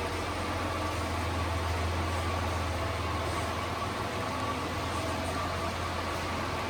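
1995 Honda Acty kei truck's small 660 cc three-cylinder engine idling steadily, a low even hum.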